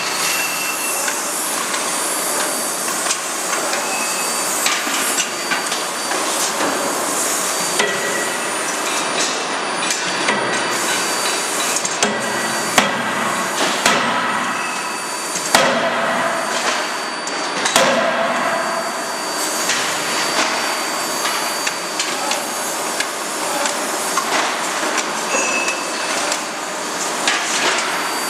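CNC hydraulic die forging hammer striking over and over, sharp blows over steady forge-shop noise, with a few heavier blows in the middle stretch.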